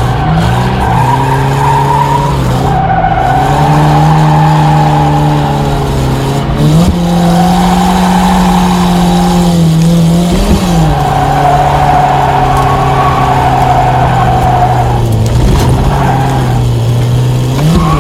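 Isuzu Gemini's G180Z four-cylinder engine held at high revs through a drift, its pitch dipping and climbing again a few times as the throttle is worked, with the tyres squealing as they slide.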